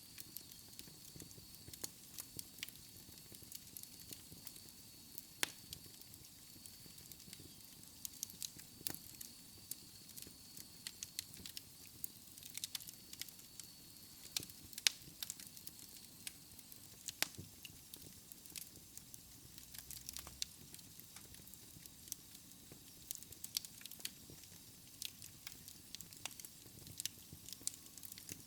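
Wood fire crackling in a fireplace: irregular sharp pops and snaps of burning logs over a soft steady hiss of the flames, with a faint high whistle through the first half.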